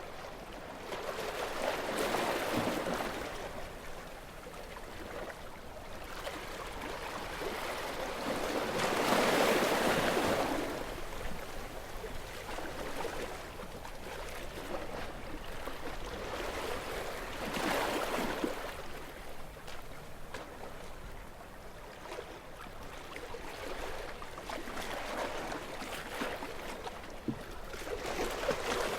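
Gentle sea waves washing ashore, each swell rising and falling away, with the biggest about nine seconds in.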